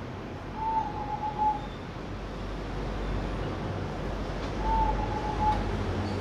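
Zebra dove (perkutut) cooing: two short warbling coo phrases about four seconds apart, over a steady low rumble.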